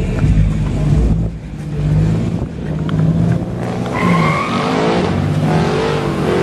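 Car doing a burnout: the engine held at high revs with its wheels spinning, and a tire squeal with hissing rubber joining about four seconds in.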